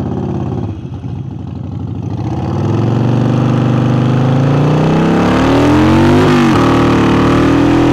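Harley-Davidson Forty-Eight's air-cooled V-twin, fitted with a new aftermarket air intake, running loud and accelerating. Its pitch climbs steadily, drops sharply about six seconds in, then climbs again.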